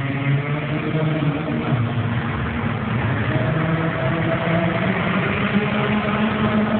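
VW Polo's engine running, its pitch sinking and then rising again over several seconds.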